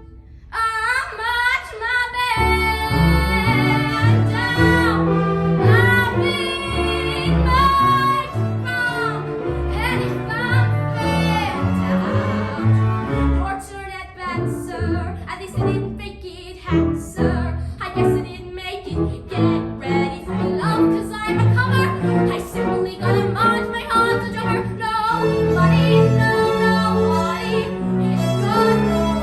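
A female singer with a string orchestra, cellos and double basses underneath. Her voice drops back for a few seconds around the middle, leaving the strings.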